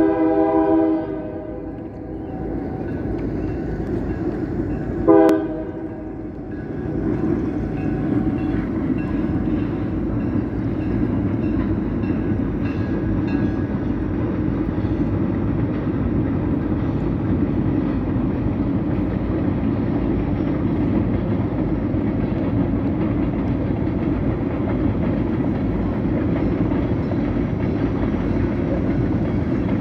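Train horn sounding a blast of about a second, then a short second blast about five seconds in, followed by a steady rumble of the train running along the far shore.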